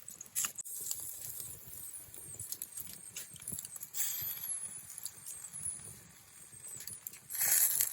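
Wood campfire embers crackling with irregular sharp pops and clicks, with a longer burst of hissing about four seconds in and another near the end.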